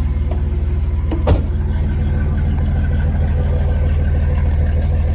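1994 Dodge pickup's engine idling steadily just after a cold start, with one sharp click a little over a second in.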